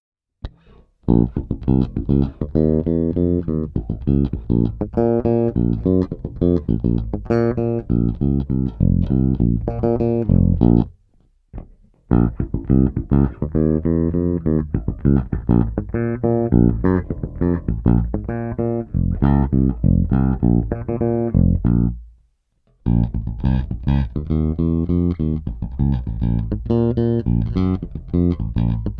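Five-string StingRay-style humbucker bass played fingerstyle, recorded direct with no compression and flat EQ, in three short passages of plucked notes separated by brief pauses.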